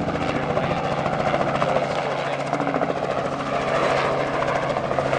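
Helicopter running steadily: a constant engine and rotor drone with a fast, even rotor chop.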